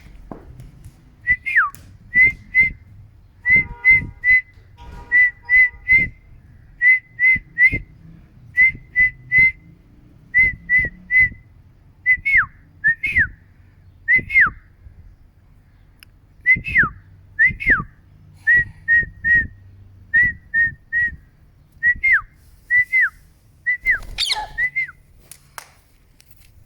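A parrot whistling the same phrase over and over: groups of two or three short notes on one pitch, some ending in a falling slide, every second or two. A brief harsh call comes near the end.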